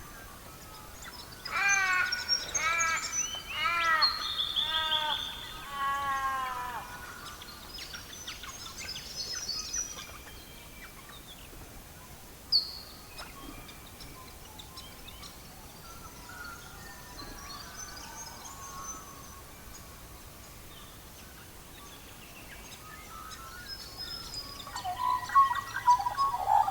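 Songbirds singing: a run of about seven repeated arched notes in the first several seconds, then scattered faint chirps, and busier, louder chirping building near the end.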